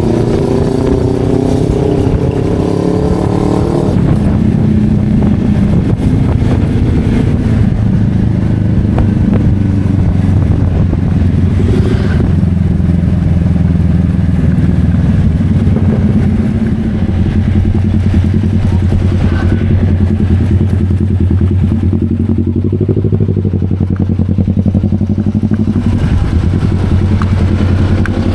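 Motorcycle engine running on the move, its note rising over the first four seconds, then dropping and holding steady.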